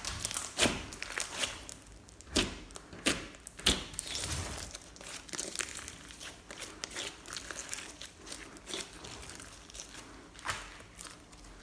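Slime being squeezed and worked by hand, giving irregular sharp pops and crackles. They come thick in the first few seconds, then thin out.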